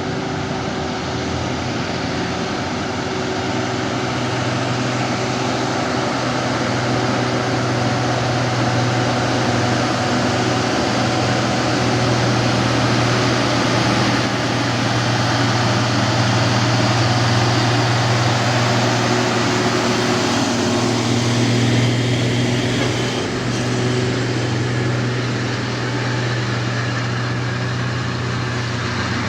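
Heavy truck's diesel engine running steadily with a deep, even hum, its pitch shifting slightly about twenty seconds in.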